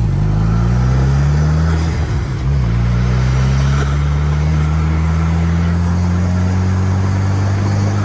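DF Goblin kit car's mid-mounted Chevy Cobalt SS turbocharged 2.0-litre four-cylinder, with aftermarket intake and exhaust, pulling hard from the open cockpit. The engine note climbs, drops for a moment about two and a half seconds in, then climbs slowly again, over road and wind noise.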